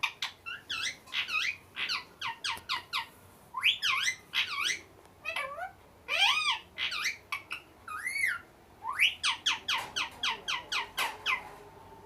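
Parrot calling: a rapid run of short, high, rising squawks and whistles, several a second, with a few longer arching calls in the middle of the run.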